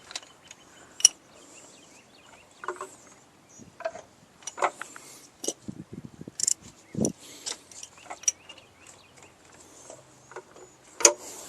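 Ratchet wrench with an oil pressure socket clicking and clanking against the engine while loosening the oil pressure switch, with scattered metal knocks, a quick run of ratchet clicks about six seconds in and a sharp click near the end.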